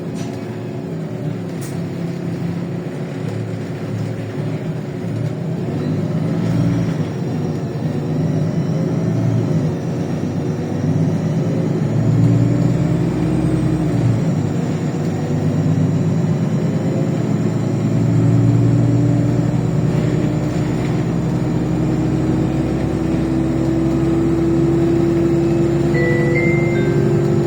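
LiAZ 5292.65 city bus on the move, heard from on board: a steady engine hum and road noise. The engine gets louder about twelve seconds in and again about eighteen seconds in, and a whine climbs slowly through the second half as the bus accelerates.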